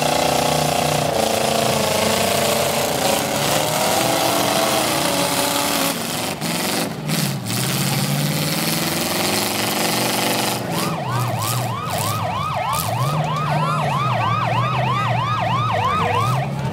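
V8 demolition derby car engines revving unevenly, and about eleven seconds in a siren starts up with a fast yelp, rising and falling about three times a second.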